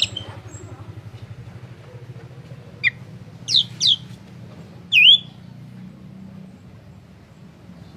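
A caged songbird giving short, loud whistled calls: one at the start, then four more from about three to five seconds in, each a quick sweep in pitch, the last falling then rising. A low steady hum runs underneath.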